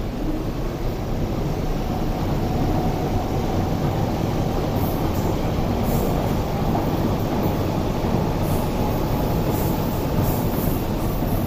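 An MTR East Rail Line electric train running past on the track, a steady low rolling noise of wheels on rail.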